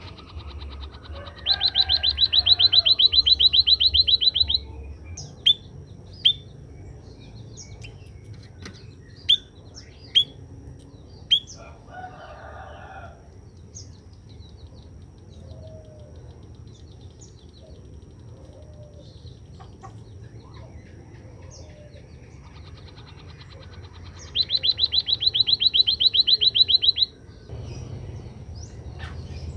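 White-headed munia (emprit kaji) singing: a long, rapid, high-pitched trill a couple of seconds in and another near the end, each about three seconds. Five short, sharp chirps fall between them.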